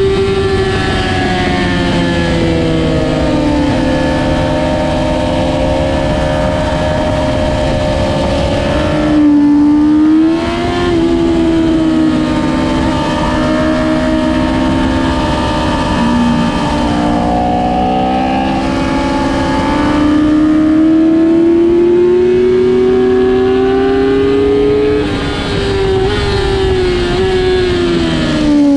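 Motorcycle engine running hard at track pace, its pitch climbing and falling with the throttle and dropping sharply twice as the rider brakes and shifts down, over a steady rush of noise.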